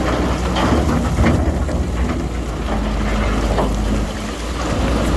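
Heavy diesel earthmoving machinery running steadily at a low rumble, with scattered crackling and clatter over it.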